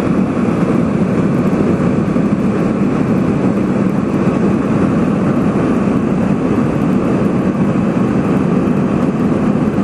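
Steady drone of an airliner in flight, engine and rushing air together, heard inside the passenger cabin from a seat behind the engine.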